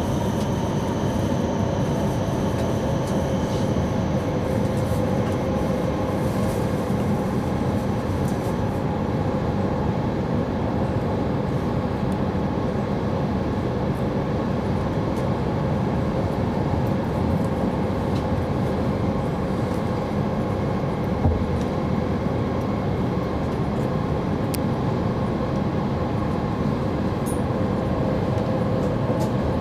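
Running noise of an E5 series Shinkansen train heard inside the passenger cabin: a steady low rumble with faint steady tones. A faint high whine fades out about eight seconds in, and there is a single short knock about two-thirds of the way through.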